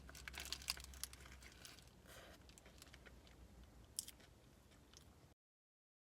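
Faint scattered clicks and crinkly rustling over a low hum, cutting off to dead silence about five seconds in.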